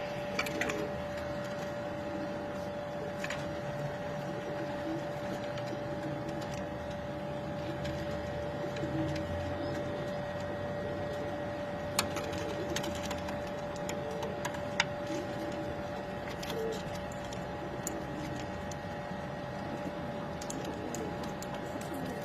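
Fadhadhi pigeons cooing softly under a steady machine hum with a constant tone. A few sharp clicks stand out, the loudest about twelve and fifteen seconds in.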